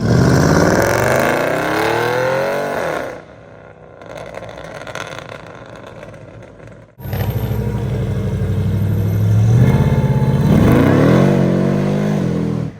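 Muscle car engines accelerating hard, twice: a loud run climbing steeply in pitch for about three seconds, then a quieter stretch. After an abrupt change about seven seconds in, a second loud engine run revs up again near the end.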